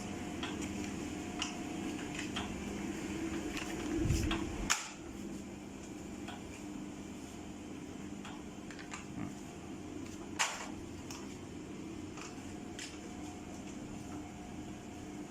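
Vertical continuous band sealer (Nesr Pack model 303) running with a steady motor hum. Scattered light clicks and knocks come over the hum, with a low thump about four seconds in and a sharper knock about ten seconds in.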